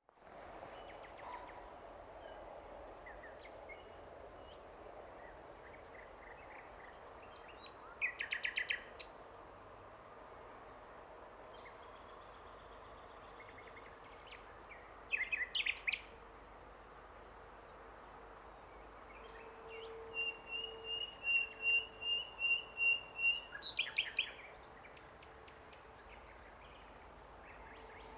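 Nightingale singing in separate phrases: quick runs of rapid repeated notes about eight seconds in and again around fifteen seconds, then a long series of clear repeated whistles that swells in loudness and ends in a fast rattle near twenty-four seconds. A faint steady hum and low hiss sit underneath.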